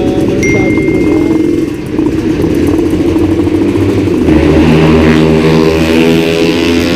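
Suzuki Satria two-stroke single-cylinder motorcycle engine running under riding load, easing off briefly about two seconds in, then pulling louder from about four seconds in.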